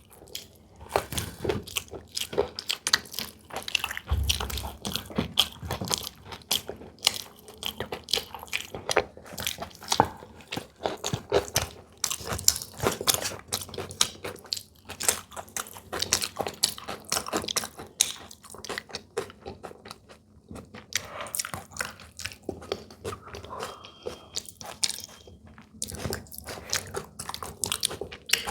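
Crunchy biting and chewing of samosas and litti, an irregular run of many small crunches and mouth clicks.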